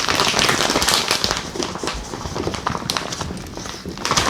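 Close-miked crackling and rustling as the rest of a package of shredded mozzarella is shaken out onto the food, with a dense patter of fine crinkles and taps that eases off in the middle and picks up again near the end.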